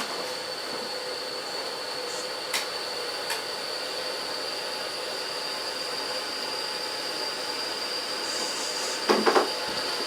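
Coal-fired steam locomotive 4633 standing with a steady hiss and a thin, high, steady whine. There are a couple of faint clicks partway through and a short, louder rush of noise near the end.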